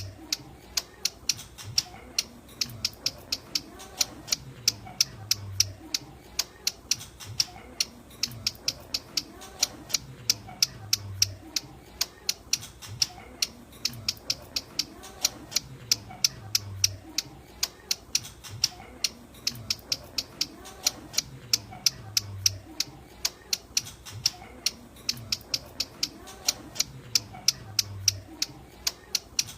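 Ciblek gunung calling: a fast, steady run of sharp, high, clicking chip notes, several a second. It is a looped lure call whose pattern repeats about every five to six seconds.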